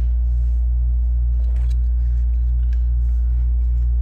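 Steady low hum of an air-conditioning unit running in the background, with a few faint clicks about a second and a half in.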